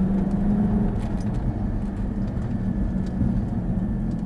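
Supercharged Jaguar F-Type engine running steadily at about 40 mph, heard from inside the cabin with road noise underneath.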